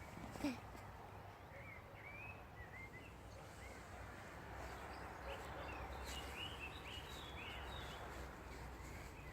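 Birds chirping over a steady outdoor background hiss: short, quick chirps, sparse at first and busier in the second half. A brief louder sound, falling in pitch, comes about half a second in.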